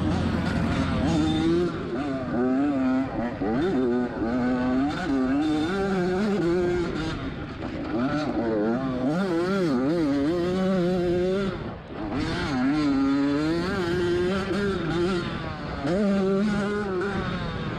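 Two-stroke dirt bike engine revving hard under race throttle, its pitch climbing and falling over and over. The throttle is shut briefly about twelve seconds in, then opened again.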